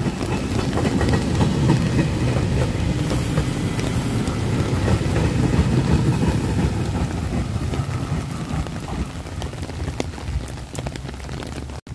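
JR Kyushu electric commuter train running past, wheels rumbling on the rails, with rain falling steadily. The train noise eases off over the last few seconds.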